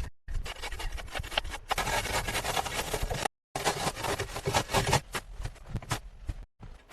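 Hand-tool work: scraping and rasping strokes with sharp knocks, broken into short clips that cut off suddenly twice.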